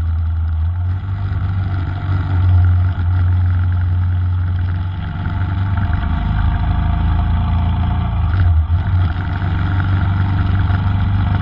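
Royal Enfield Himalayan's single-cylinder engine running steadily on the move, with a brief change in note about three seconds in and again near eight and a half seconds.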